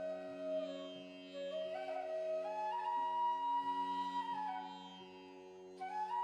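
Background instrumental music in an Indian classical style: a flute plays a slow melody of held notes that step and slide between pitches, over a steady drone.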